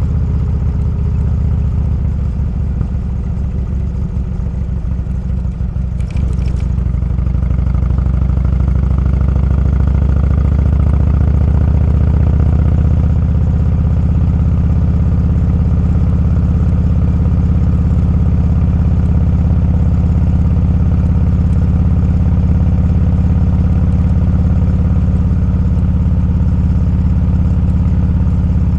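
Motorcycle engine running steadily under way, with a brief click about six seconds in, after which it gets a little louder and holds steady.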